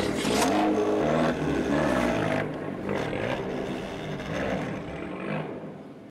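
Fiat 500 Abarth's turbocharged four-cylinder engine running through its exhaust, its pitch rising and falling as it is revved, dying away toward the end.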